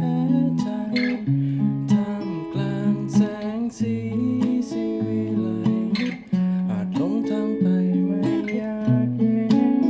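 Acoustic guitar strummed in a steady rhythm, with chords changing about every second: a wordless guitar passage of the song.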